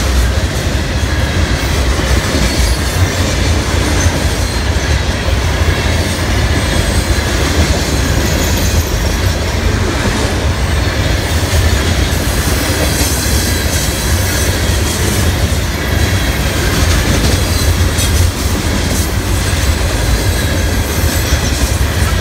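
Florida East Coast Railway freight train's hopper cars rolling past close by: a steady, loud rumble of steel wheels on the rails.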